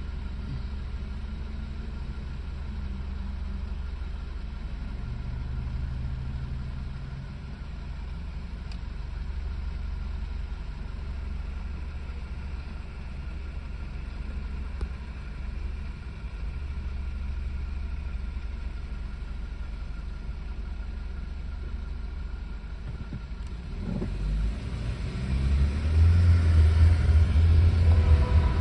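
Diesel train locomotive approaching: a steady low engine rumble that grows louder over the last few seconds and is loud near the end.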